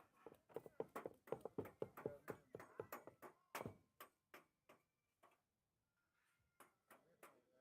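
Rapid knife chopping on a cutting board, about four to five strokes a second, thinning out to a few scattered taps in the second half.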